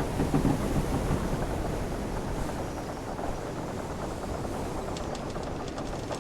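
Wooden sailing ship creaking over a steady low rumble of sea and wind. There is a creak at the start and a run of short wooden ticks about five seconds in.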